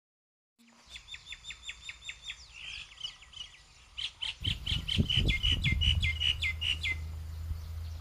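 A small bird chirping in quick repeated notes, about five or six a second, in two runs: a short one starting just under a second in and a longer one from about four seconds in. A low rumble joins from about halfway.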